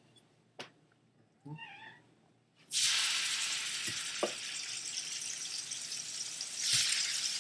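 Chicken breasts dropped into hot bacon grease in a skillet: a loud sizzle starts suddenly under three seconds in and keeps going, swelling briefly near the end. Before it, a short meow-like cry.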